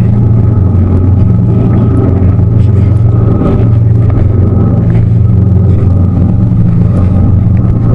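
Tour boat's engine running at a steady speed, a loud, even low drone heard from on board.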